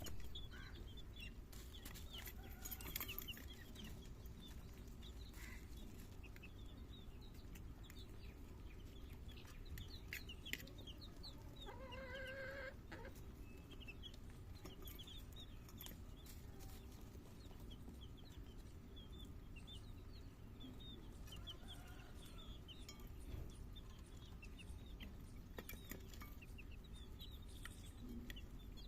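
Chickens clucking, with many short high peeps scattered throughout and one longer pitched call about twelve seconds in, over a low steady background rumble.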